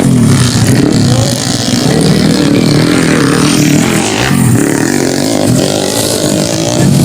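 Motocross dirt bike engines running and revving, the pitch rising and falling with the throttle.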